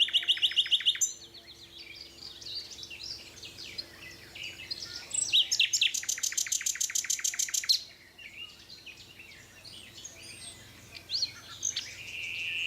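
Songbirds singing: a mix of high chirps and whistles, with a loud fast trill of about ten repeated notes a second from roughly five and a half to eight seconds in.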